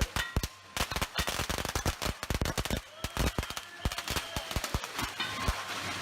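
Strings of firecrackers going off in rapid, irregular sharp bangs, several cracks a second.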